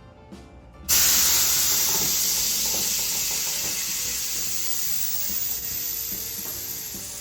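Air suspension on a 1974 VW Beetle releasing air as the car lowers: a sudden loud hiss that starts about a second in and slowly fades.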